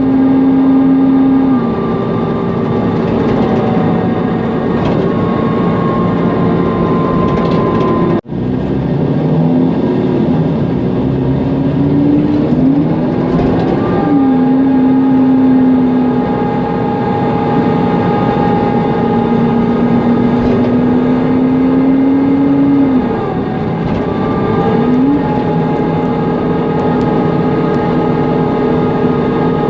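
Mercedes-Benz Conecto NGT city bus on the move: its OM 936G CNG engine and loud cooling fan, with steady whining tones whose pitch falls about a second and a half in and rises again around 13–14 seconds in. The sound dips briefly about 23 and 25 seconds in. A very short dropout comes about 8 seconds in.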